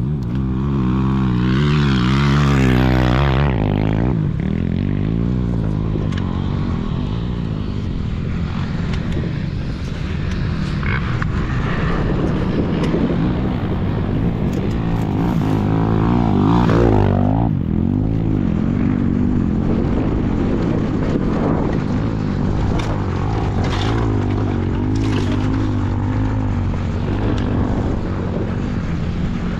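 Dirt bike engine running at changing revs, its pitch climbing over the first few seconds and then dropping suddenly, with another rev up and back down about halfway through. Scattered short knocks sound over it.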